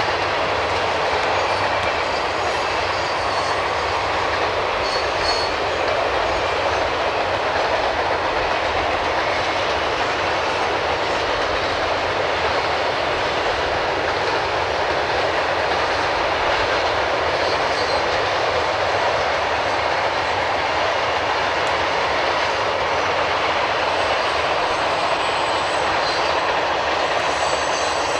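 Freight train cars passing at speed: the steady noise of steel wheels rolling on rail as a string of hopper cars and boxcars goes by.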